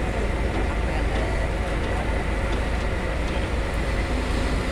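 Heavy diesel engines of a concrete mixer truck and concrete pump running steadily, a continuous low rumble with a faint steady whine above it.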